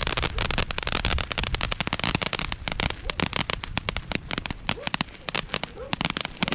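Firecrackers going off in a rapid, irregular string of sharp pops and cracks, many per second.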